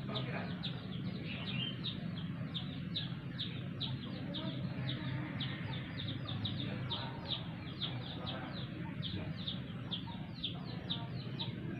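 A bird chirping over and over, short high chirps that drop in pitch, about three to four a second, over a steady low hum.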